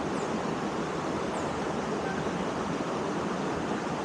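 Waterfall and cascade water rushing steadily.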